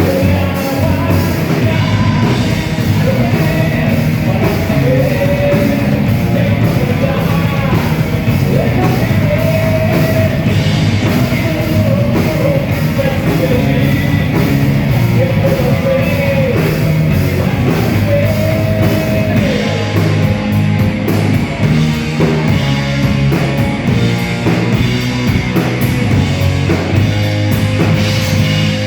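Rock band playing live, loud and steady, with a sung vocal line over the instruments.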